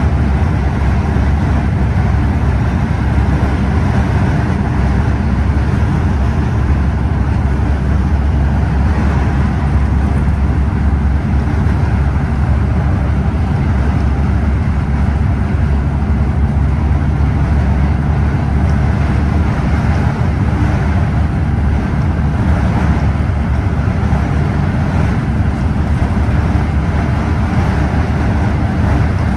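Scania OmniExpress coach driving at a steady pace: a constant low engine drone mixed with road and tyre noise.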